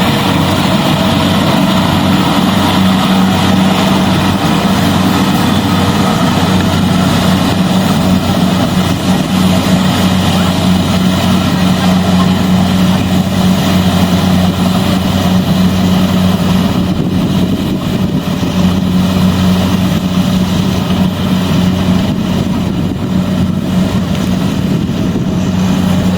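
Combine harvester engine running steadily with a constant low hum.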